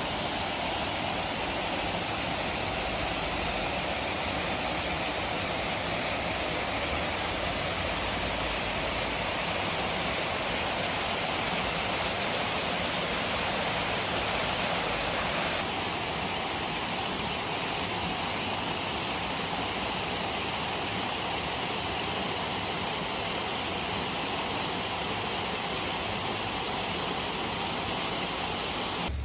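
Waterfall rushing steadily, an even roar of falling water; its tone shifts a little over halfway through.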